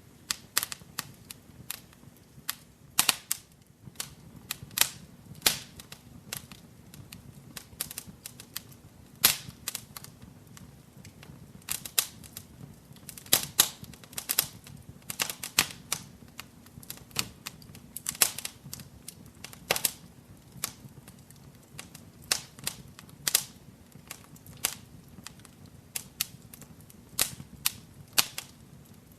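Wood fire crackling in a fireplace: irregular sharp pops and snaps, a few a second, over a low steady rumble of the flames.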